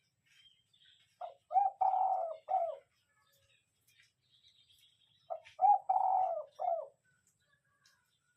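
Spotted dove cooing: two phrases of about four notes each, the second about four seconds after the first.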